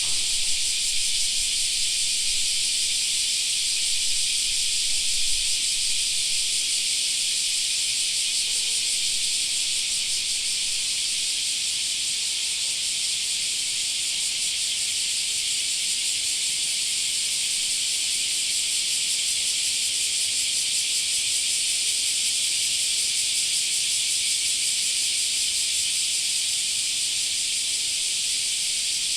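Cicadas singing in a dense chorus, a steady high-pitched shrill buzz that does not let up.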